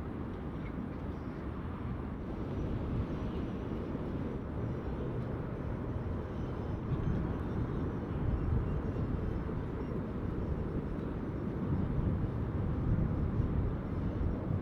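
Jet airliner on landing, heard from the ground: a steady low rumble of engine noise that swells a little about halfway through and again near the end.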